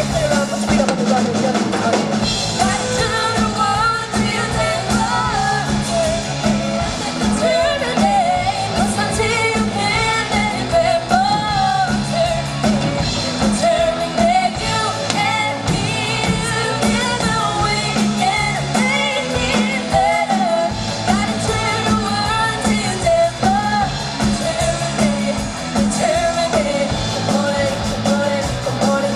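A rock band playing live, with a singer's voice carrying the melody over guitar, bass and drums.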